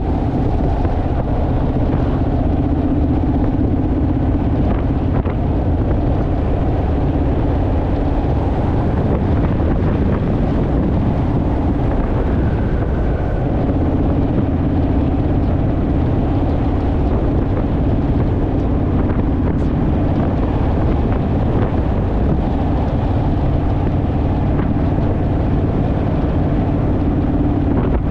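A motorcycle riding at a steady cruising speed: the engine runs at an even pitch under constant wind noise on the microphone.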